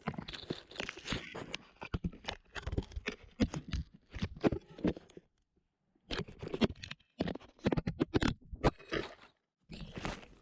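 A kea's beak biting and scraping at the GoPro's housing up against the microphone: irregular crunching clicks and scrapes, pausing for about a second around five seconds in and briefly near the end.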